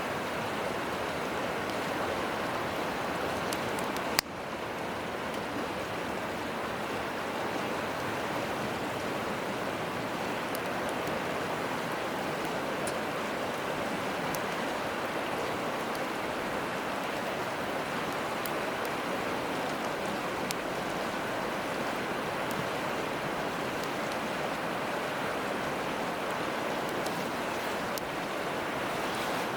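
Steady rushing of a river, with the small sharp crackles of a wood campfire and one louder snap about four seconds in.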